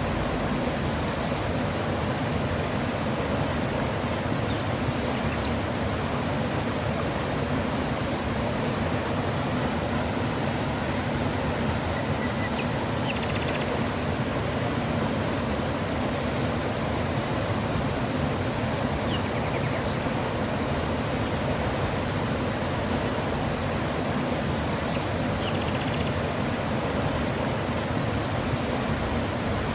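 Mountain river flowing, a steady rushing of water. Over it, a high chirp repeats evenly about two or three times a second, breaking off about ten seconds in and starting again a couple of seconds later.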